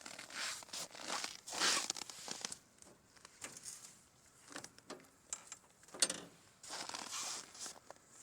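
Faint rustling and scraping noises coming in uneven swells, several in a row, each under a second long, with a few light clicks among them.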